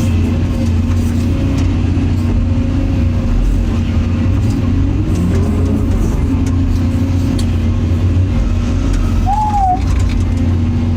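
Excavator's diesel engine running steadily with a low drone while it digs and loads clay, with a short squeal that rises and falls about nine seconds in.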